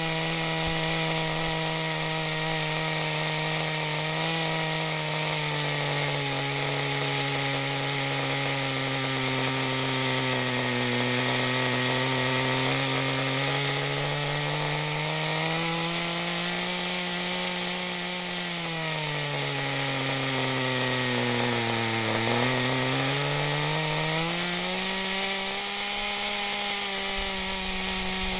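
Small glow-fuel engine of a 1/10-scale Kyosho RC car running steadily without load, its pitch slowly wandering down and back up, sagging lowest about twenty-two seconds in and then picking up again.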